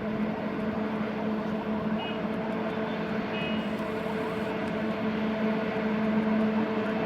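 Twin WAG-5A electric locomotives running, with a loud, steady whine of a few held tones over a constant rumble.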